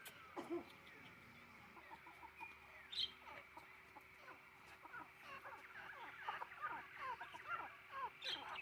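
Chickens calling: many short, faint clucks and peeps that get busier after about four seconds, with a single sharp knock about three seconds in.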